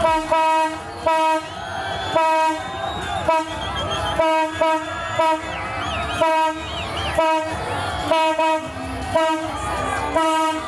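Train horn sounding a chord in short, repeated blasts, about one every second, over the noise of the passing train.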